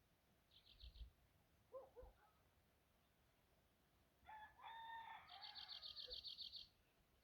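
A rooster crowing once, faint and distant, a crow about a second and a half long that starts a few seconds in. A small bird's rapid high trill overlaps the end of the crow, after a short high chirping burst and a brief lower call earlier on.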